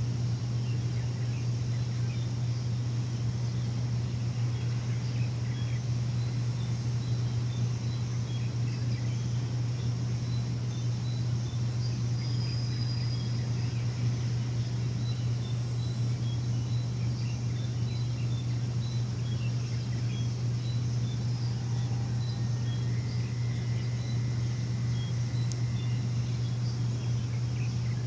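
A steady low machine hum, with faint scattered bird chirps above it and a thin high tone held for about three seconds near the end.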